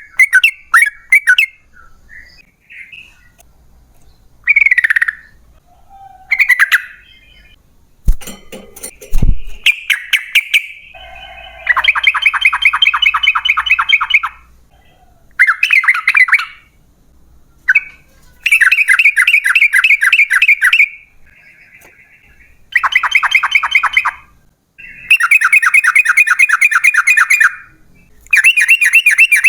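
Yellow-vented bulbul (trucukan) singing. Short separate phrases come first. From about a third of the way in it gives a series of long, very fast rattling trills of rapidly repeated notes, each lasting two to three seconds. A brief run of clicks and a low thump comes about a quarter of the way in.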